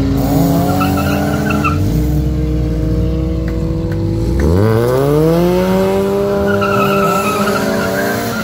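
Ford Escort drag car's engine held at steady revs on the start line, then launching: its pitch rises sharply about halfway through and holds high as the car pulls away, with tyre squeal.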